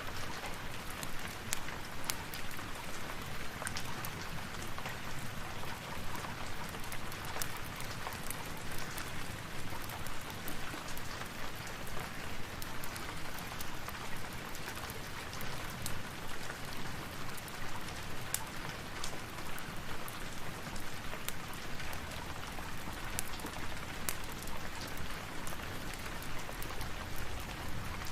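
Steady rain falling, an even hiss with scattered small ticks throughout.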